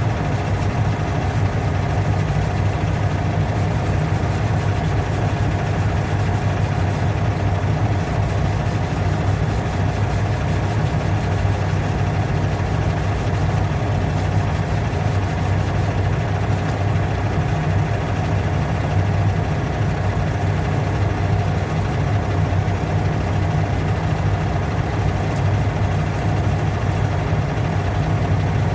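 A steady low motor hum that holds the same pitch and level throughout, with no strokes or breaks.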